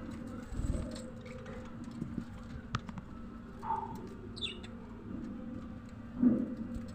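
Budgerigars giving scattered short chirps over a steady low hum, with a louder low-pitched call or sound near the end.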